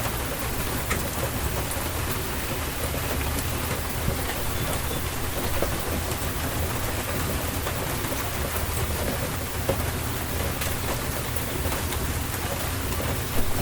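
Steady rainstorm: continuous rain falling on surfaces with scattered individual drop taps and a low rumble of thunder underneath. There is one sharper tap near the end.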